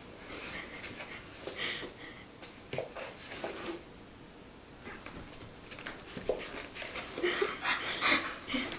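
A cat scuffling in a cardboard box: irregular bursts of rustling and scratching, with a few short low sounds in between.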